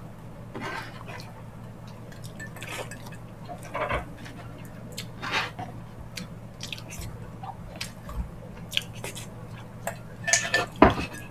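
Close-miked eating sounds: scattered wet lip smacks and chewing of sticky, gelatinous ox-feet stew with rice, a smack every second or two, coming thicker and louder near the end, over a faint low hum.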